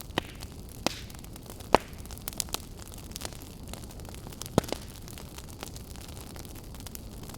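Wood campfire crackling: a steady low rush of burning with scattered sharp pops, the loudest about two seconds in and another strong one at about four and a half seconds.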